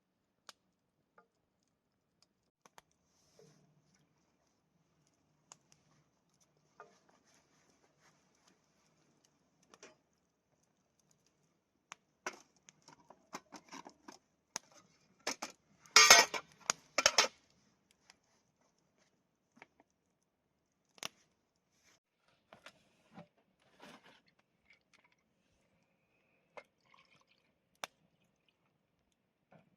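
Scattered light clicks and knocks of objects being handled, with a brief burst of louder clattering about halfway through.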